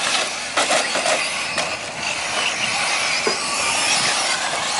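Radio-controlled 4WD short course trucks racing on the track: a steady hiss of motors and tyres, with a few sharp clacks as trucks land or knock into things, and a faint rising motor whine near the end.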